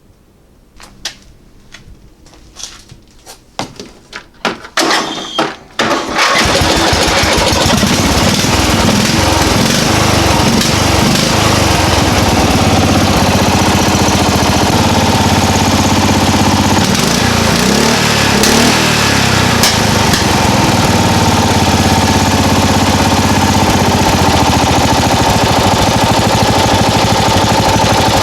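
Noma lawn mower engine: a few seconds of short sputters and knocks, then it starts and runs loud and steady at full throttle. It will only rev to about 4,000 RPM.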